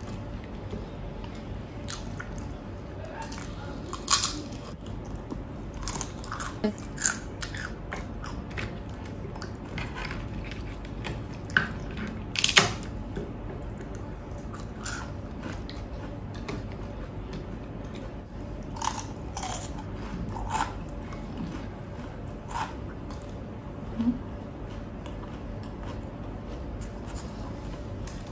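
A person chewing and biting crunchy food close to the microphone, with sharp crunches at irregular intervals. The loudest come about four seconds in and about twelve seconds in.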